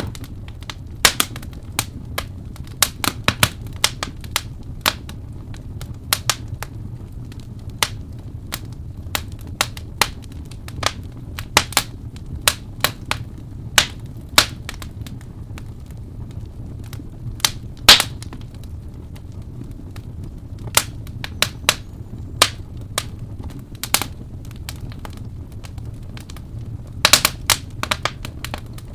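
A wood fire crackling, with irregular sharp pops and snaps over a steady low rumble of flame. A sharp pop stands out about eighteen seconds in, and a cluster of pops comes near the end.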